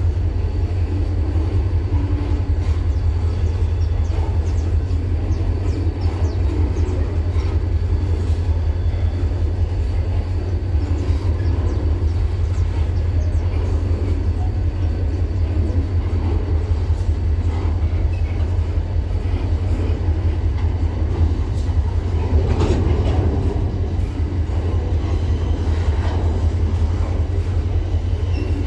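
Train rolling through with a steady low rumble and scattered clicks of wheels over the rails.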